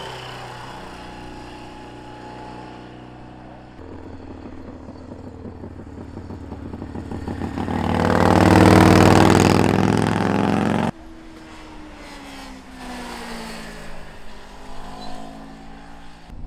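Street motorcycle engine growing louder as it approaches and passes, loudest about eight or nine seconds in, then cut off abruptly about eleven seconds in. Afterwards a quieter engine can be heard, falling in pitch.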